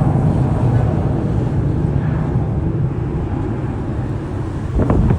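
Steady low rumble of a jet airliner's engines, with a couple of sharp knocks near the end.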